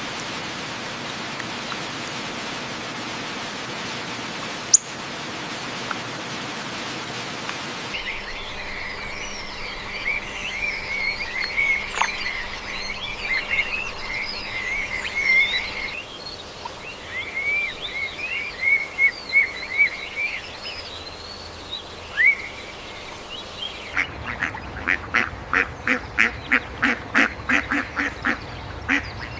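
Birds calling over a natural ambience: first a steady, even hiss like flowing water, then high, busy chirping and twittering, and near the end a fast run of harsh, repeated calls, about three a second.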